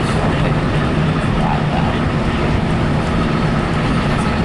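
Passenger train running along the line, heard from inside the coach: a steady rumble and rushing noise. A faint steady whine joins about three seconds in.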